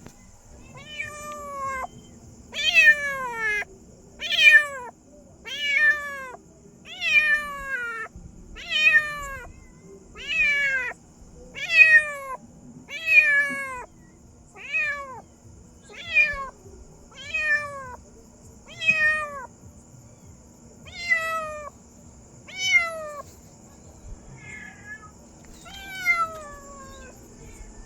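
A domestic cat meowing over and over, about sixteen meows roughly a second and a half apart, each one falling in pitch.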